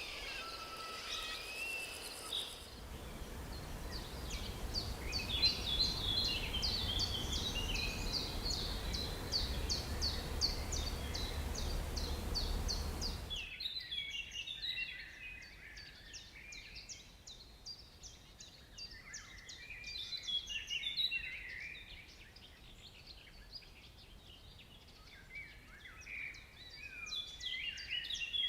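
Birds calling. For the first half, a fast run of repeated high chirps, about four a second, sits over a low rumble. This cuts off suddenly about halfway through, leaving a looser mix of bird calls and twitters.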